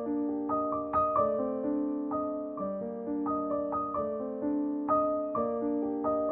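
Gentle background piano music, with notes struck one after another in a flowing pattern, each ringing on as it fades.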